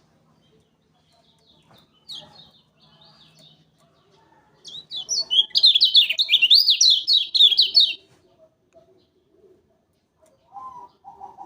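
Kecial kuning, a white-eye kept as a songbird, singing. A few soft high chirps come first. About five seconds in comes a loud, rapid run of zigzagging high notes lasting about three seconds.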